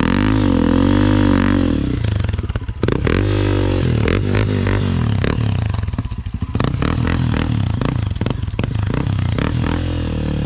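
Dirt bike engine revving up and down, its pitch rising and falling several times, with clattering and scraping knocks over it.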